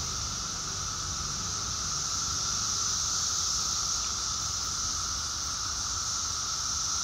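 Dense chorus of Brood X periodical cicadas, a steady, unbroken hiss with a strong high band and a lower drone beneath it.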